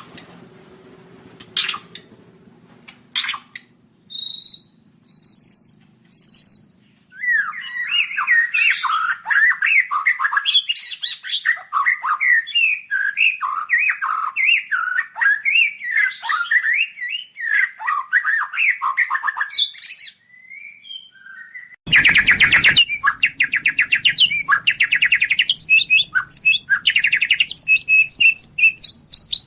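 White-rumped shama (murai batu) singing. It opens with a few sharp clicks and high, thin whistled notes, then pours out a long run of rapid, varied chattering phrases. After a brief pause comes a harsh rasping burst, followed by fast repeated notes.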